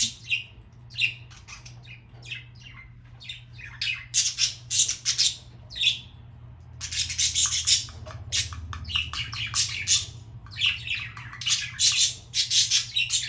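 Budgerigars chattering: runs of rapid, harsh, high calls in bursts of a second or two, busiest through the second half.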